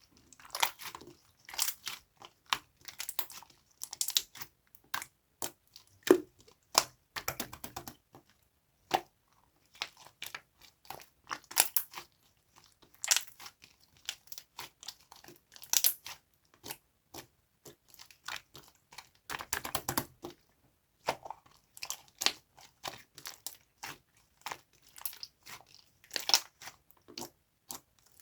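Slime being squeezed, pressed and stretched by hand, giving irregular clusters of sharp crackling and popping clicks with short pauses between.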